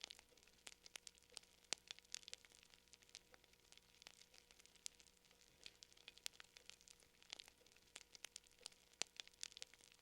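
Faint crackling fire: irregular sharp pops and snaps, several a second, over a quiet hiss.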